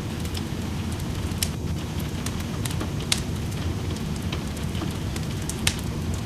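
Wood fire in a fireplace crackling, with sharp pops about one and a half, three and five and a half seconds in, over steady rain.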